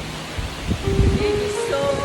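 Steady rush of a mountain stream, with low buffeting on the microphone about half a second in. About a second in, held musical tones come in and step up in pitch.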